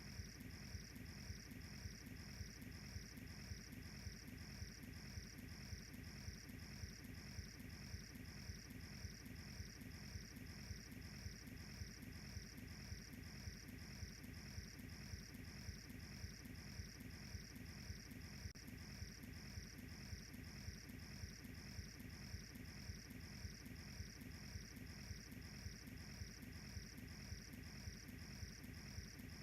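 Crickets chirping in an even, steady rhythm, about two chirps a second, over a low steady background hiss.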